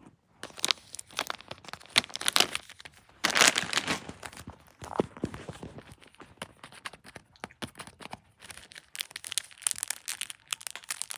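Close-up crinkling and crackling with many small sharp clicks and rustles, like crinkly material being crumpled or torn, made for ASMR.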